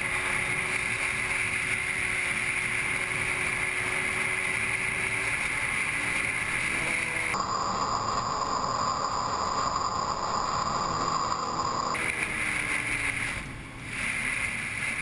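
Steady wind and road noise of a moving motorcycle, with a faint engine drone underneath. The sound changes abruptly about seven seconds in and switches back about five seconds later.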